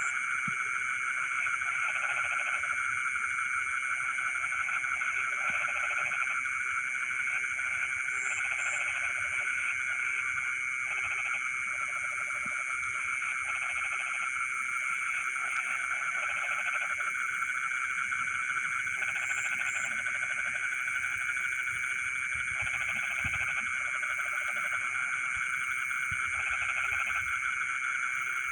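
Frogs calling in a flooded rice field: a dense, steady high-pitched chorus, with lower croaking calls repeating every second or two.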